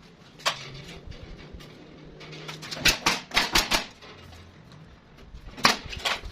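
Sharp knocks and clacks of hard objects in irregular clusters: one about half a second in, a quick run of four or five around three seconds in, and two more near the end.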